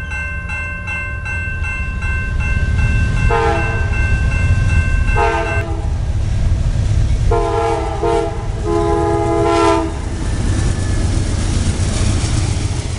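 Amtrak passenger train passing a railroad crossing, with a heavy rumble throughout. The crossing bell rings rapidly and stops abruptly about five and a half seconds in. The locomotive's horn sounds two pairs of chord blasts, the first starting about three seconds in and the second about seven seconds in.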